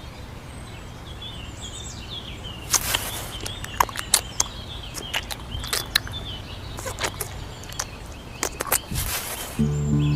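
Small birds chirping over a steady low hum, with scattered sharp clicks and taps throughout. Music comes in near the end.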